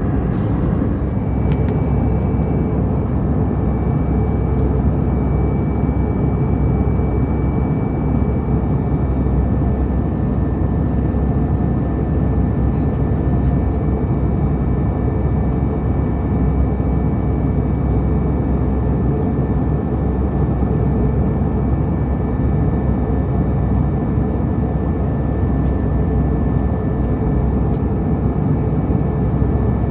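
Steady in-flight cabin noise of an Airbus A320 airliner: an even, low rushing drone with two faint steady high tones above it.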